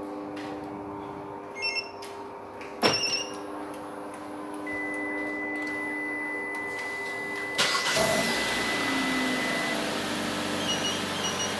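Short electronic beeps from the car alarm system, then the Kia Sportage's engine is started remotely by the StarLine alarm: it cranks and catches about eight seconds in and keeps running. A few more short beeps come near the end.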